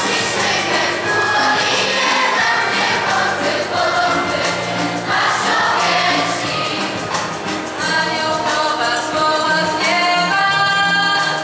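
Choir singing a Polish Christmas carol (kolęda), the voices held in sustained, changing notes throughout.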